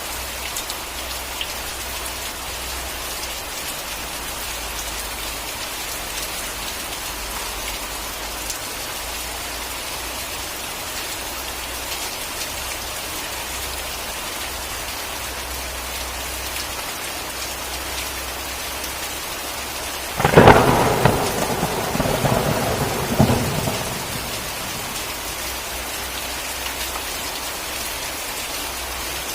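Steady heavy rain falling, with a sudden close thunderclap about two-thirds of the way in that cracks sharply and rumbles off over a few seconds.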